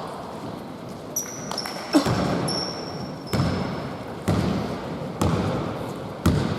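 Basketball bouncing on a hard indoor court, roughly one bounce a second, with brief high sneaker squeaks on the floor.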